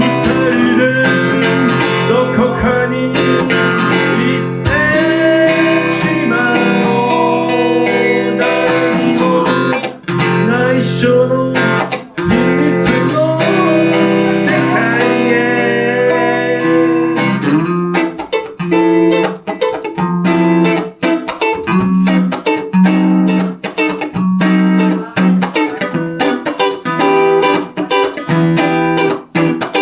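Electric guitar (a Telecaster through a Roland JC-120 amp) playing live: sustained, bending notes at first, then from about two-thirds of the way in sparser single notes picked one by one.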